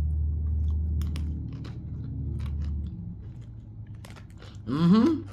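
Crunchy seasoned pretzels being bitten and chewed close to the microphone, with scattered crackling crunches. A steady low hum lies under the first three seconds, and a short voiced hum rising in pitch comes near the end.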